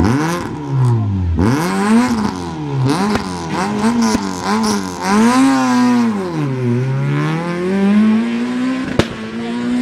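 Rally car engine revving hard, its pitch climbing and dropping several times in quick succession, then holding a long climb. A single sharp crack comes near the end.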